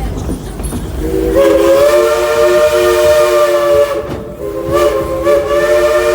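Steam locomotive's chime whistle sounding a chord in two long blasts with a short break between them, over the low rumble of the train running.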